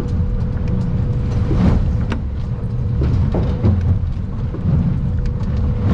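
Stabicraft 2050 Supercab aluminium boat under way in rough water, heard from inside the cabin: a loud low rumble of engine and hull, with scattered sharp ticks and knocks and a faint steady hum.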